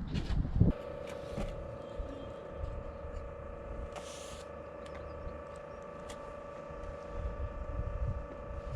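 Diesel heater's fan starting up less than a second in and then running with a steady whine, with a short hiss about four seconds in.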